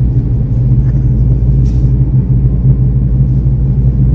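Steady low rumble of a car running, with no changes in pitch.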